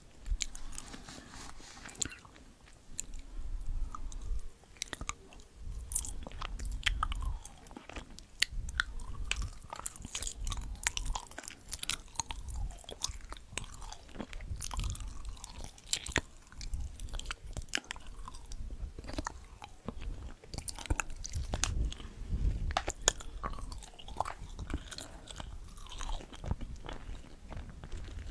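A person chewing and biting food close to the microphone, with many sharp, irregular crunching clicks.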